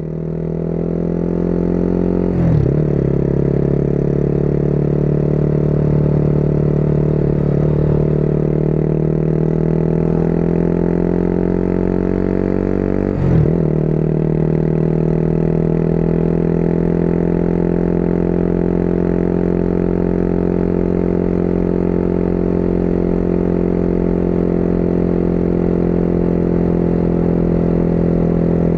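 Motorcycle engine running under way, its pitch climbing slowly and dropping sharply twice, about two and a half seconds in and again about thirteen seconds in, as it shifts up through the gears, then holding a steady cruising note.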